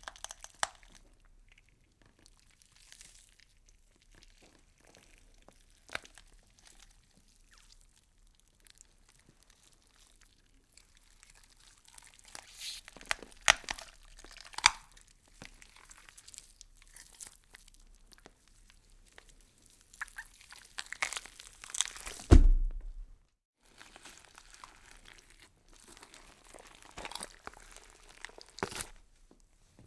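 Horror sound-effect foley of irregular crunching, crinkling and tearing, like flesh being cut or torn. It grows busier in the second half, with one loud low thud about two-thirds of the way through, then a brief silence.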